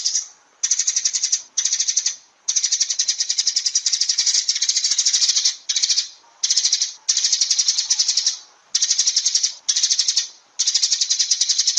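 Sparrow calls: a rapid, rattling chatter of high chirps in bouts of about half a second to three seconds, separated by short gaps, each bout starting and stopping abruptly.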